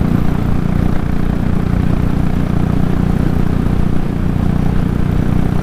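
Royal Enfield Classic 500's single-cylinder engine running steadily while the motorcycle cruises at highway speed, with a constant low rumble.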